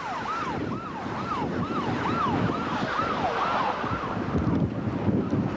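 A siren in a rapid yelp: repeated falling sweeps, about two and a half a second, over steady wind noise. The siren fades out about four seconds in.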